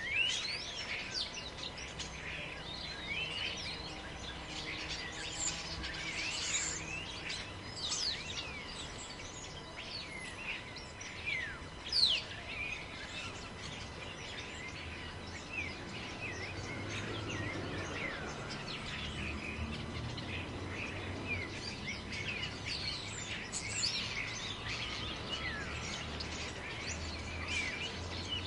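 Many birds chirping and calling in a forest, short chirps and whistles overlapping all the way through, over a low rush of wind in the trees that swells from about halfway.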